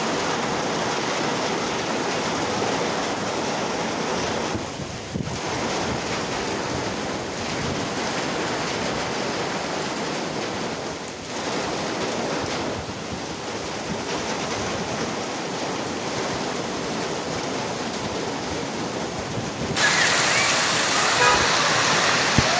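Heavy monsoon rain with rushing water, a steady even hiss. It turns brighter and louder about twenty seconds in.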